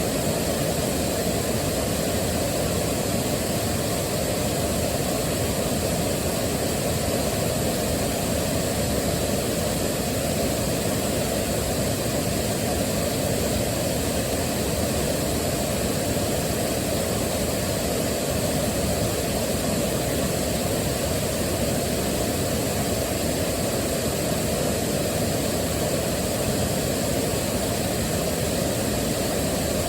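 Waterfall: a steady, unvarying rush of falling water, heaviest in the low and lower-middle range.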